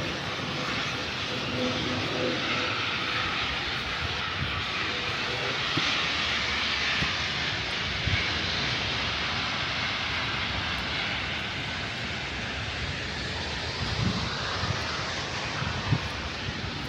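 A plane passing overhead: a steady rushing engine roar that swells through the middle and eases off near the end.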